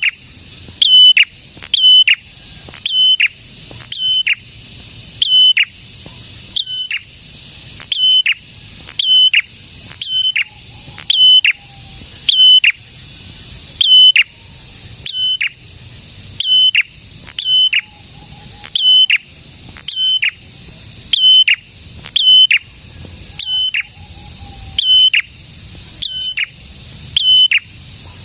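A prenjak, a small Indonesian warbler, singing a repeated call about once a second: each note a short held high whistle that drops sharply in pitch at its end. A faint steady hiss runs behind it.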